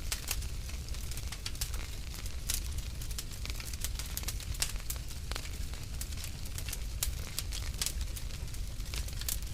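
Wood fire crackling in a fireplace, with irregular sharp pops and snaps over a steady low rumble of the flames.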